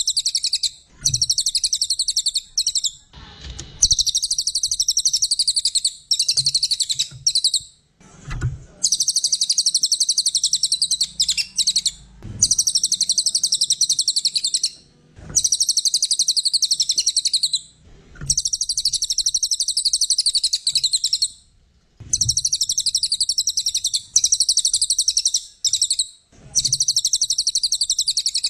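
A cililin songbird singing continuously in long, rapid, high-pitched trilling phrases of a few seconds each, repeated with only brief pauses between them.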